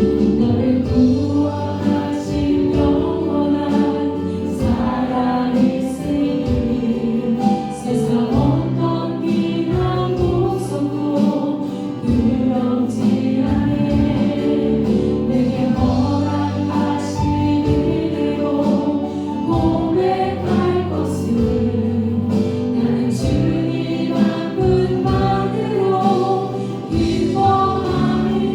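Worship band and singers performing a contemporary Christian praise song, with a choir of voices over keyboard, bass and drums.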